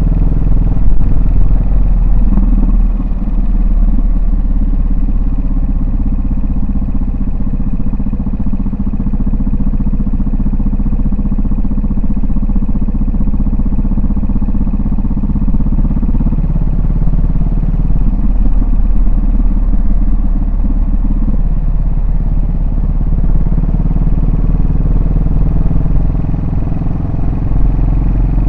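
Yamaha SR400's single-cylinder four-stroke engine and exhaust running under way, the engine note shifting up and down with throttle a few times.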